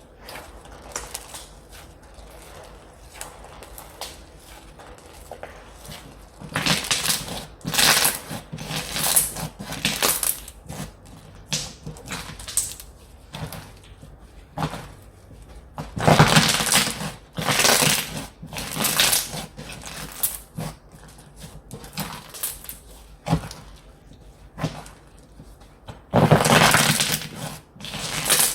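Slime being squished, pressed and stretched by hand, giving irregular squelching bursts. It is soft at first, with louder runs of squishing about a quarter of the way in, around the middle and near the end.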